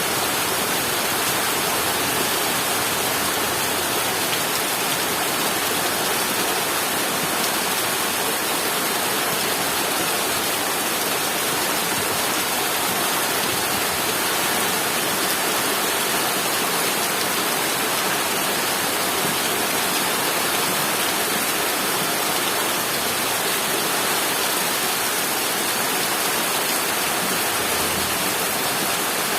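Steady rain falling, a loud, even hiss that holds without a break.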